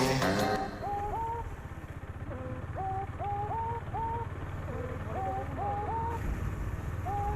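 Birds calling over and over, short calls that each rise in pitch and then hold, in quick irregular clusters over a steady low rumble.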